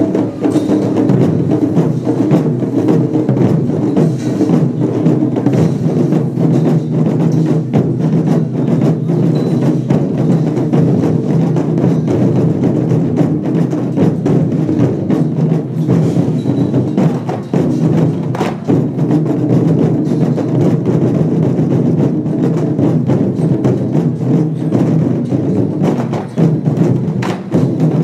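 Lion dance percussion band playing without pause: rapid drumming with ringing gongs and cymbals.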